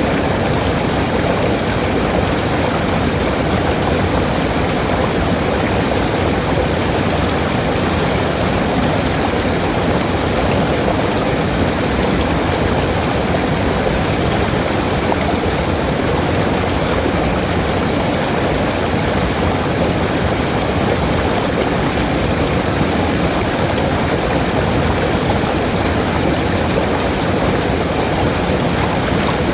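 Waterfall: a steady rush of falling water with no breaks or changes.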